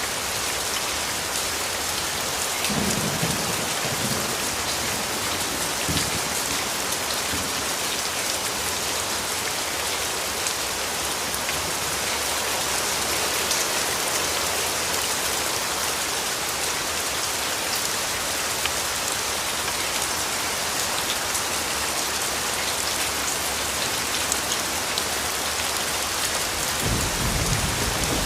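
Steady rain falling in a dense patter of drops. Low rumbles of thunder come about three seconds in and again near the end.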